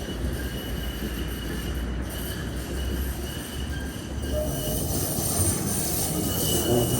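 PKTS 71-931M Vityaz-M tram running, heard from inside the car: a steady low rumble of wheels and running gear, with faint, thin, high wheel-squeal tones that come and go. It grows louder and brighter in the second half.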